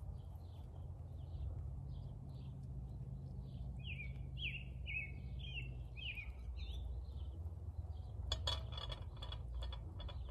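A songbird singing a run of short downward-sliding notes, about two a second, over a steady low rumble. Near the end, a quick cluster of small clicks and clinks from a snail shell being worked with a pick.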